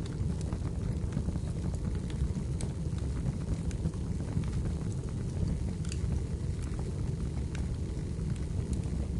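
Wood fire burning in a fireplace: a steady low rumble with scattered sharp crackles and pops every second or two.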